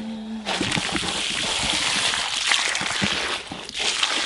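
Water sprayed from a hose onto loose-laid bricks to wash them down: a steady hiss of spray that starts about half a second in.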